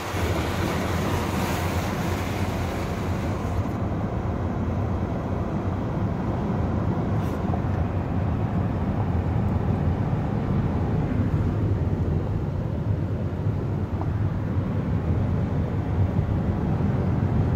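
A vehicle running with a steady low rumble, and a higher hiss at the start that dies away about four seconds in.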